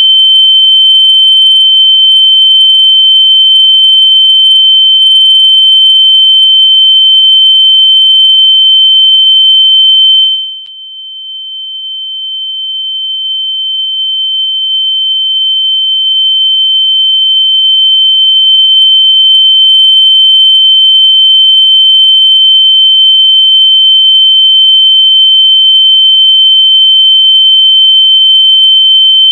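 A single loud, high-pitched electronic tone held steady, made to be heard through lost AirPods so they can be found. About ten seconds in it drops sharply in loudness, then slowly swells back to full strength over several seconds.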